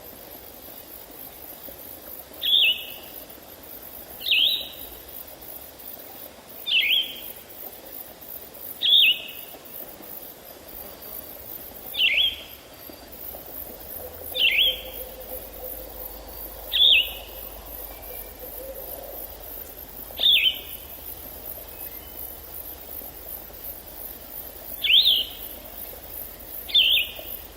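A forest bird repeating a short call that falls in pitch, about ten times at roughly two-second intervals with one longer pause, over a faint steady high hiss.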